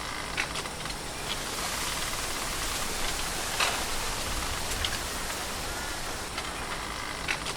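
Steady outdoor hiss of porch ambience, with a few light ticks scattered through it.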